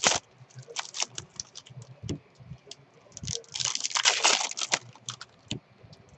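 Trading card packs and cards being handled: a run of short clicks and taps, with a longer crinkling rustle of pack wrapper about halfway through.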